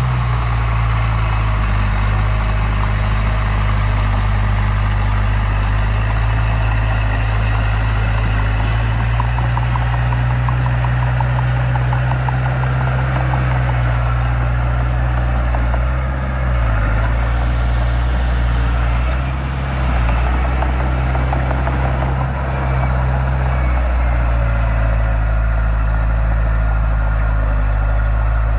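Heavy construction machine's diesel engine running steadily with a deep, even hum, dipping briefly a few times in the middle.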